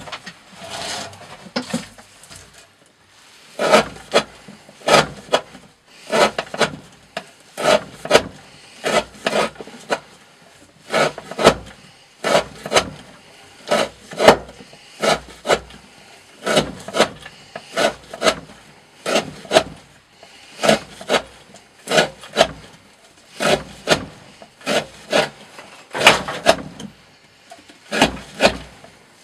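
A D2-steel knife blade slicing through thick 20 mm rope in repeated short strokes, about one cut a second and often in quick pairs, each a brief rasping cut, with a short pause about two seconds in.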